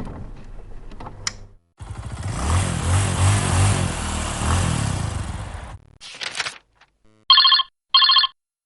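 A run of separate stock sound effects: about four seconds of a dense, noisy rumble with a pulsing low end, a short burst, then two short electronic telephone rings about 0.7 s apart, the loudest sounds in the stretch.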